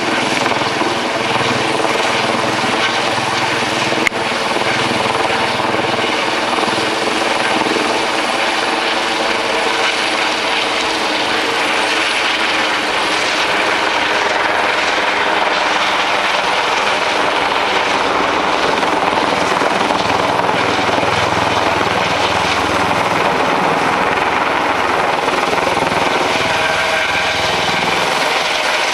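Helicopter hovering low overhead: a loud, steady rotor and engine drone that holds constant. A single sharp click about four seconds in.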